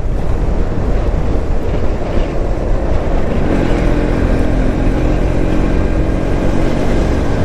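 Motorcycle on the move, its engine running under heavy low wind rumble on the rider's microphone; about three and a half seconds in, a steady engine note comes through.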